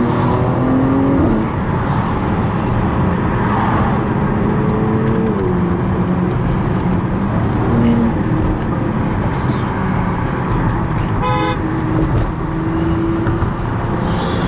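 Cars driving on the road, with a steady engine and road rumble whose pitch rises and falls. A short car-horn toot sounds about eleven seconds in.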